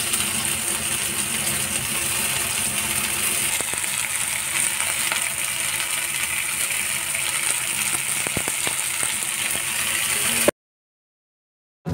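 Paneer tikka skewers sizzling in shallow oil in a stainless steel pan: a steady hiss, with a few light clicks late on. It cuts off to silence about ten and a half seconds in.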